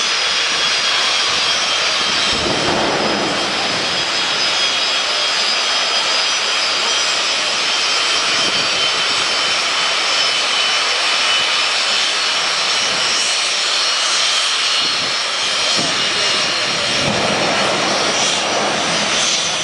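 Jet engine of a jet-powered show truck running hard: a steady, loud rushing roar with a high turbine whine over it, swelling briefly a couple of times.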